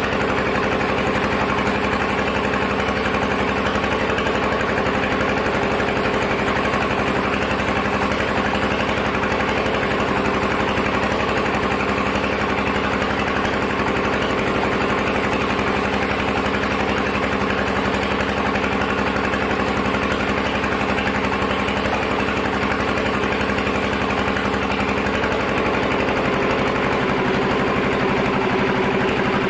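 Sawmill machinery running at a steady, unchanging pitch, a motor hum with several held tones.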